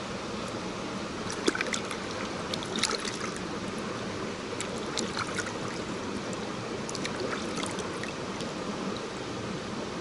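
Steady rush of flowing water, like a small stream, with scattered light clicks and knocks over it, the sharpest about one and a half and three seconds in.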